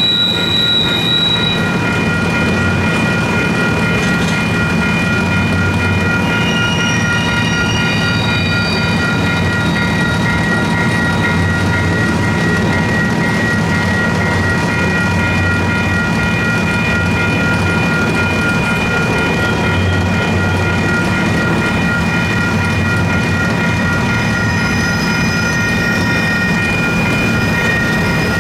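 Union Pacific double-stack intermodal freight cars rolling past with a steady rumble, the wheels squealing in high gliding tones now and then. Over it, the crossing's electronic bell rings steadily.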